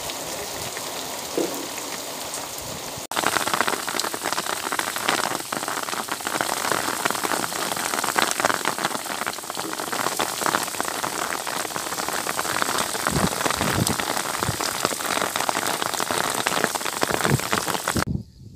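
Heavy monsoon downpour, rain falling steadily and densely. It turns louder about three seconds in and stops abruptly near the end.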